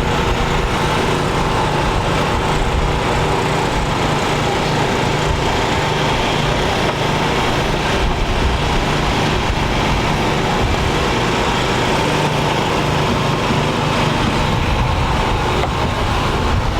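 No-prep drag race car engine running at a steady idle, with no revving.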